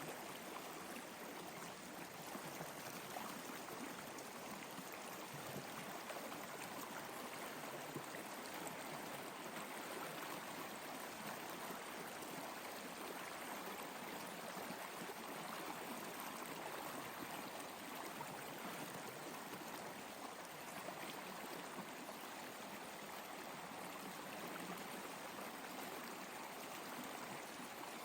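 Flowing water running steadily, like a stream, an even rushing sound with no let-up.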